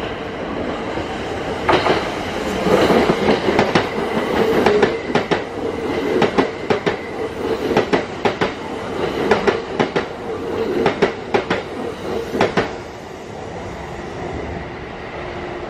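Kintetsu 3200 series electric train passing through a station without stopping. A steady rumble builds, then a long run of sharp wheel clicks over the rail joints, which fades away near the end as the train leaves.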